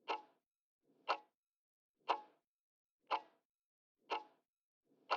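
Clock ticking sound effect counting down the time to answer, one short tick a second, six ticks.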